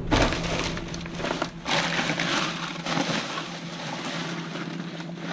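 Trash being rummaged through in a dumpster: irregular crunching and rustling of debris, over a steady low hum.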